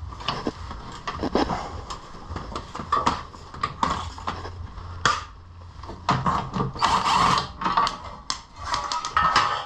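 Hand tools working on steel bolts: irregular metallic clicks and clanks, with a busier run of them about six to seven seconds in, as the radiator support bolts are worked loose.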